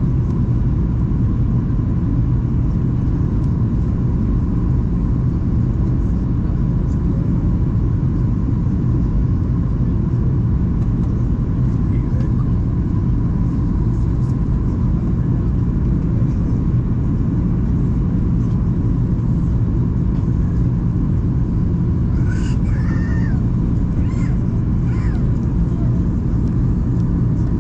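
Steady cabin noise of a Boeing 737-800 in flight: a deep, unbroken drone of its CFM56 turbofan engines and rushing air, with a faint steady hum above it.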